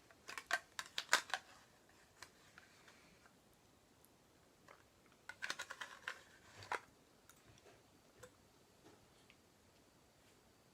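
Faint light clicks and taps in two short clusters, one starting right away and one around five to seven seconds in, with a single click in between.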